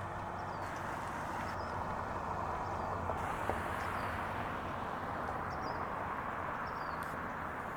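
Steady outdoor rushing noise, with a small bird chirping faintly and high, about once a second, and a couple of light clicks near the middle.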